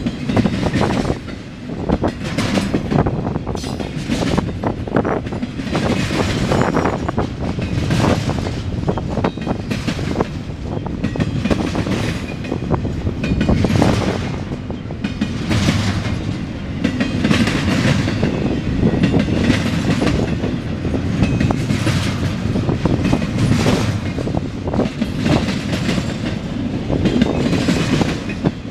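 CSX intermodal freight train's cars rolling past, a steady rumble with wheels clacking over the rail joints again and again.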